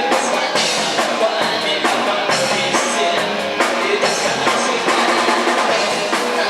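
Live rock band playing, with the drum kit prominent: snare and bass drum hits in a steady beat over guitars.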